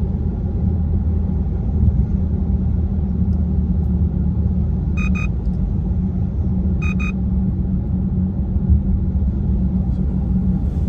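Steady low rumble of a car's engine and road noise heard from inside the cabin while driving. Two quick pairs of short electronic beeps sound about five and seven seconds in.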